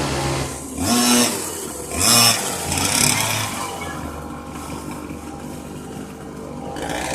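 Motorcycle engine running, revved in two short bursts about one and two seconds in and a smaller one near three seconds, then running more steadily.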